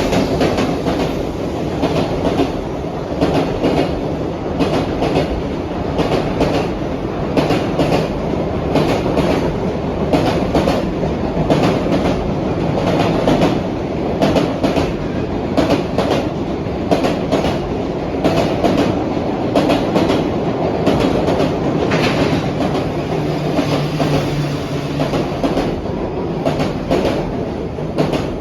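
Freight train cars rolling along the track, a steady rumble with a continual run of sharp wheel clicks over rail joints.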